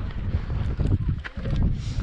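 Strong wind buffeting the microphone, a heavy irregular rumble that drops away briefly just past the middle.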